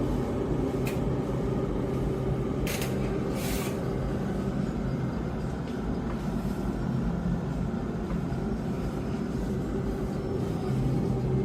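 Steady electrical hum of a household appliance running, with a few faint clicks in the first few seconds.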